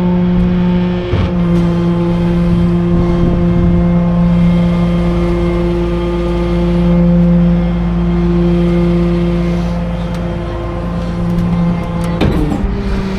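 Vehicle engine running at a steady speed, a continuous even hum, with a short sudden sound near the end.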